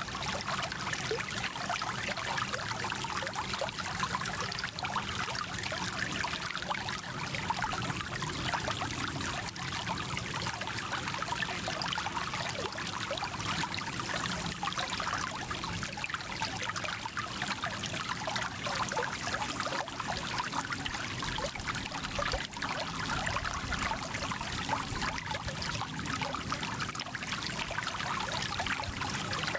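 Small mountain stream flowing and babbling over stones: a steady rush of water with fine splashing and gurgling.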